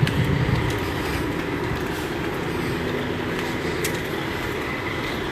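A truck running in the distance: a steady low rumble, with a few faint clicks.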